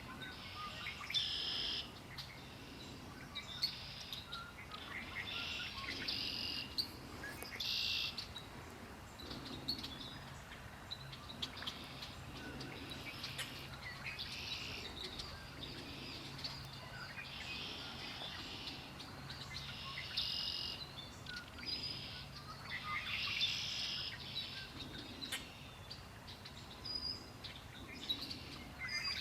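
Songbirds singing and chirping, with short phrases following each other every second or two, over a faint steady low hum.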